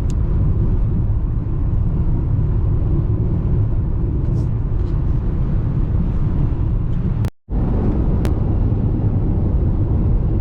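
Car cabin road noise while driving: a steady low rumble of engine and tyres, cutting out briefly about seven seconds in.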